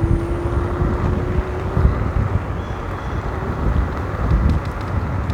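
Wind buffeting the microphone and low tyre rumble from an electric kick scooter riding along a road, with a faint whine rising in pitch over the first two seconds.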